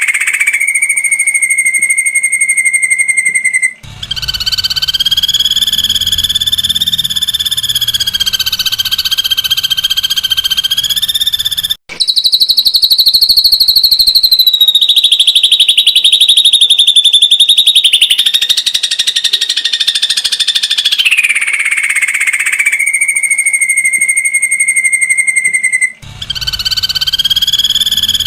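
Ashy drongo giving its rapid 'tembakan' trill calls: long buzzy trills, each held steady in pitch for several seconds, with brief breaks about four, twelve and twenty-six seconds in.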